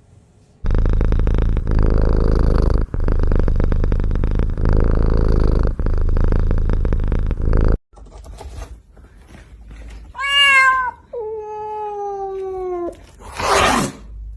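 A domestic cat purring loudly right at the microphone for about seven seconds, stopping abruptly. Then a cat meows twice, a short call followed by a longer one that falls in pitch, and a short rough noisy sound comes near the end.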